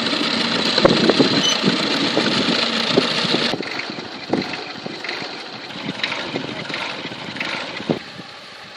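Vintage stationary engines running, with wind gusting on the microphone. The gusts are loudest for the first few seconds, then ease off.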